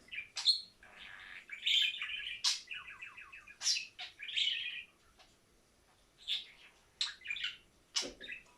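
Pet budgerigar chirping and warbling: short high chirps and a quick chattering run of rapid notes, with a pause of about a second near the middle before more chirps.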